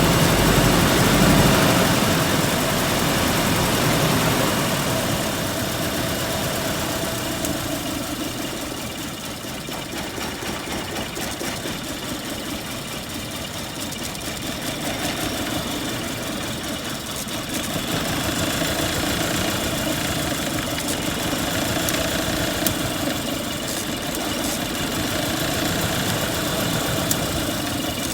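Car engine idling steadily, its level dropping for several seconds midway and then picking up again.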